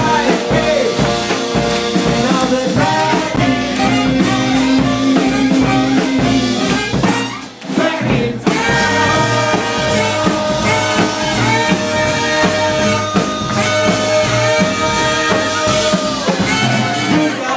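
Live band with drum kit playing instrumentally, ending on a long held chord that cuts off about a second before the end.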